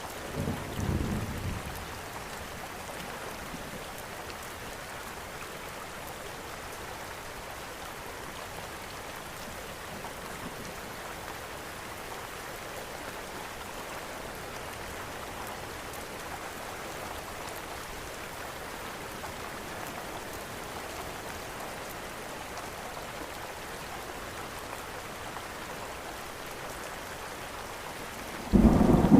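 Steady rain falling, with a short low rumble of thunder about a second in and a loud clap of thunder breaking in just before the end.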